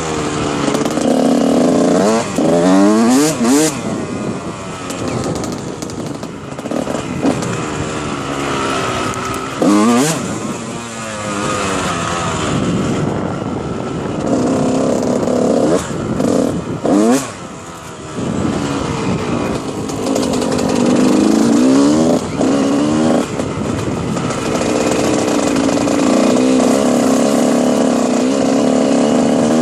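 Dirt bike engine running under load while being ridden, its pitch repeatedly sweeping up and dropping back as the throttle is worked. The level dips briefly about eighteen seconds in.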